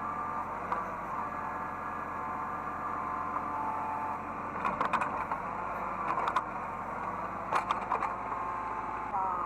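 Hydraulic excavator running, its hydraulic whine shifting in pitch as the controls are worked, with sharp metallic knocks in small clusters about halfway through and again near the end.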